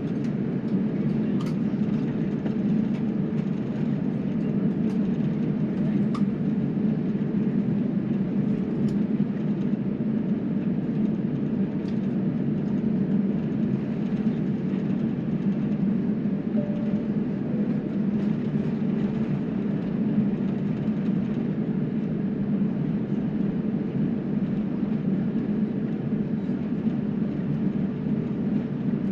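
Steady cabin noise inside a jet airliner on the ground, the low rumble of the running engines and air conditioning, with a few faint clicks in the first seconds.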